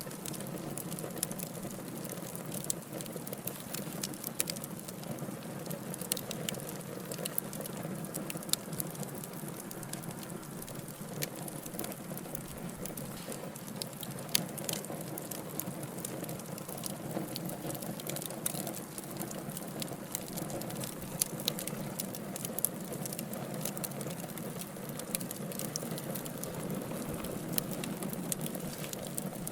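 Wood fire burning in a fireplace: a steady low rushing of the flames with many sharp, irregular crackles and pops from the logs.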